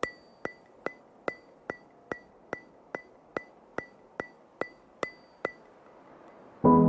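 Background music track opening with a steady, metronome-like ticking, about two and a half sharp ticks a second, each with a short bright ring. The ticking stops, and near the end ambient music with sustained piano-like chords comes in loudly.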